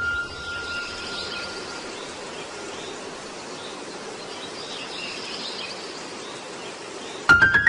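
Outdoor nature ambience: faint bird chirps over a steady hiss of background noise. It cuts off abruptly near the end as louder music comes in.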